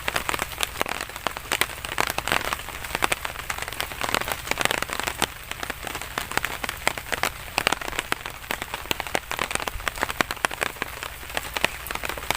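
Rain falling steadily, with a dense, irregular run of sharp drop strikes close by.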